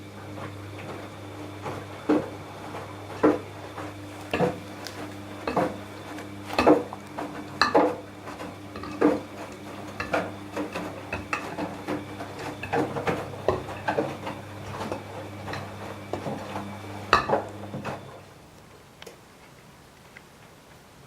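Washing machine running: a steady motor hum with clinks and knocks about once a second as the laundry tumbles in the turning drum. The hum and the knocking stop together about eighteen seconds in.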